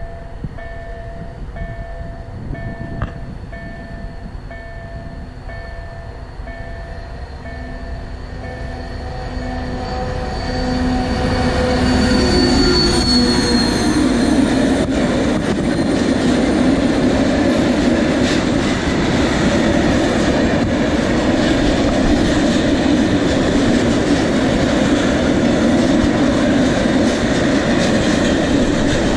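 A level-crossing warning signal rings in quick repeated strokes. About a third of the way in, a diesel-hauled freight train of open wagons arrives and passes close by, its engine and the steady rumble and clatter of wheels on the rails growing loud, with a brief high wheel squeal shortly after it arrives.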